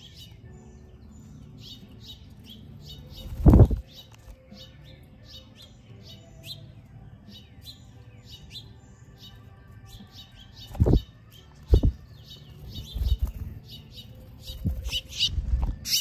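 Small birds chirping, short high chirps coming several times a second, broken by a few loud low thumps. The last of the thumps come as a bird flutters its wings to land on the feeder.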